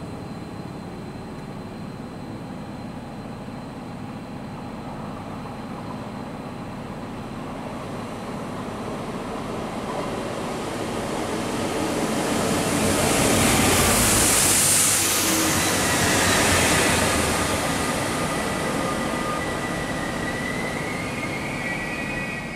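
ÖBB Talent electric multiple unit running into the station and past close by, its wheel and running noise building to a peak with a strong hiss about two-thirds of the way through, then easing as it slows. A thin, high-pitched whine comes in over the last several seconds.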